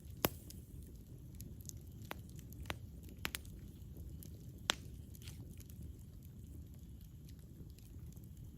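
Wood campfire burning: a steady low rumble of flames with scattered sharp crackles and pops, the loudest pop just after the start and a few more in the first five seconds.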